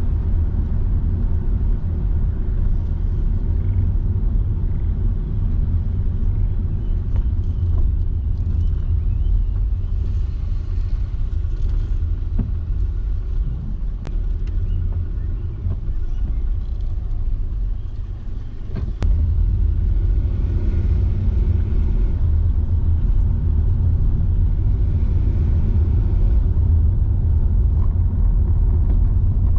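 Car driving: a steady low rumble of tyres and engine. It eases off for a few seconds past the middle, then comes back louder.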